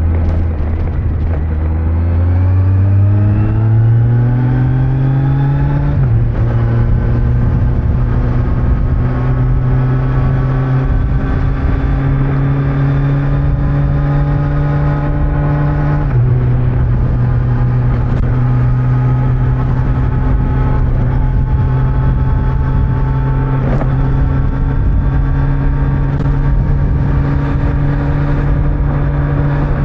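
2025 Kawasaki Z900's inline-four engine with stock exhaust, rising in pitch under acceleration for about six seconds, dipping briefly as it shifts up, then running at steady cruising revs with two short dips in pitch later on. Wind and tyre noise run underneath.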